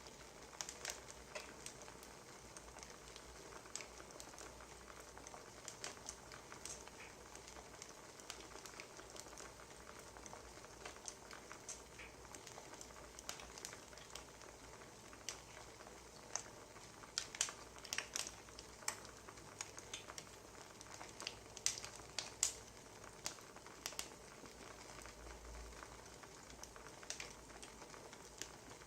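Wood fire crackling: a soft steady hiss with irregular sharp pops, which come thicker about two-thirds of the way in.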